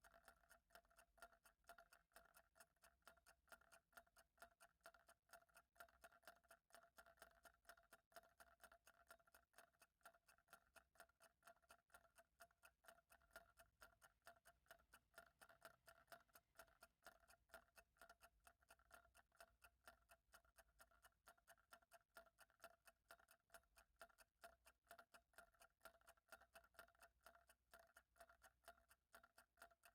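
Faint clock ticking, a fast and perfectly even run of ticks with no change.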